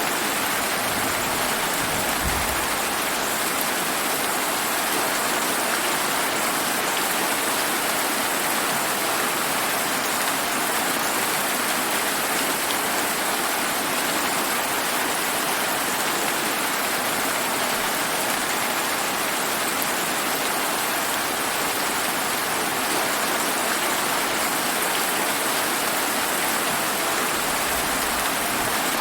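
Steady, heavy rain falling, an even hiss with no thunder.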